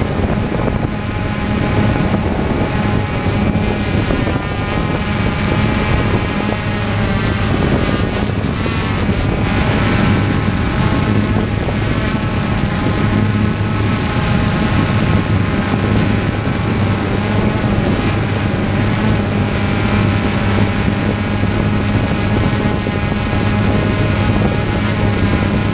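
Propeller-driven aircraft running steadily: an unchanging low hum with many overtones and some rushing noise.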